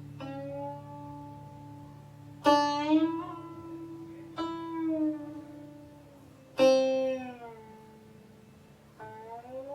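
Guqin, the seven-string Chinese zither, played solo and slowly: about five widely spaced plucked notes that ring on, several bending up or down in pitch as the left hand slides along the string. The loudest notes fall about a third and two thirds of the way through.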